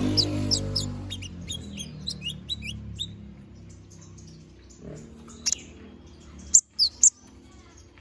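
Kolibri ninja (konin) sunbird singing: a quick run of sharp, high chirps and twitters through the first three seconds, then a few loud separate high notes later on. A low, layered tone underneath fades away during the first second.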